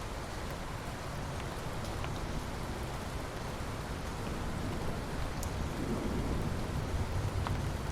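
Steady rainfall with scattered sharp drop ticks. A low rumble of distant thunder swells up in the second half.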